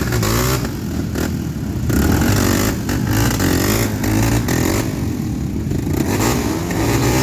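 Dirt bike engine revving unevenly, its pitch rising and falling again and again.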